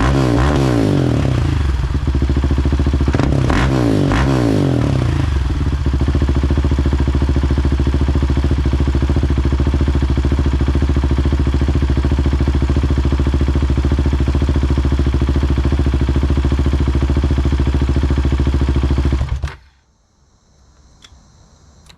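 Husqvarna 701 Supermoto's single-cylinder engine through a Tekmo stainless header and Arrow carbon slip-on exhaust, blipped in two quick revs near the start, then idling steadily. Near the end the engine is switched off and the sound cuts out suddenly.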